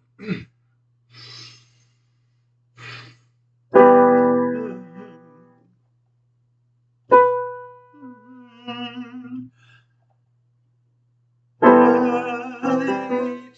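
Piano chords struck one at a time and left to ring out, three of them with pauses in between, about four, seven and twelve seconds in. Two soft breaths come before the first chord.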